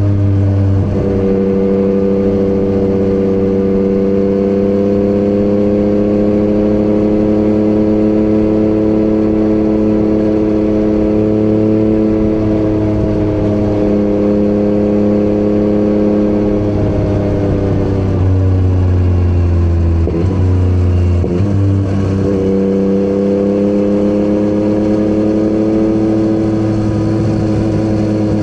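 Yamaha MT-09's inline-three engine through an Akrapovic exhaust, running at a steady cruise. Its pitch steps down about a second in, sinks slowly as the bike eases off about two-thirds of the way through, breaks with a gear change, and then holds steady again.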